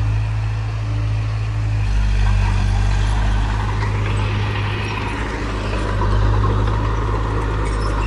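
Large diesel engine of heavy earthmoving equipment running steadily under load, a deep continuous drone that shifts in pitch about two seconds in, with a rise in mechanical noise midway.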